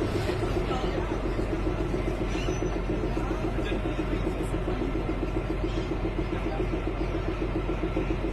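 Kalka–Shimla narrow-gauge toy train running: a steady rumble with a fast, even pulsing hum.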